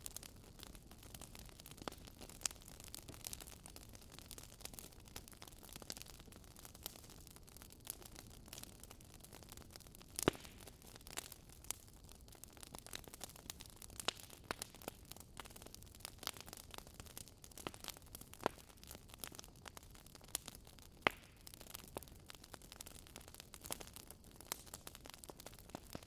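Wood campfire crackling, with irregular sharp pops throughout, the loudest about 10 seconds in, over a steady low rush of the river.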